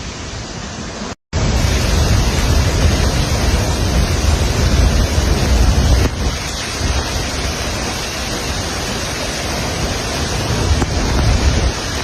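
Steady rush of falling or flowing water with low wind buffeting on the microphone. It cuts out briefly about a second in, comes back louder, and eases a little about halfway through.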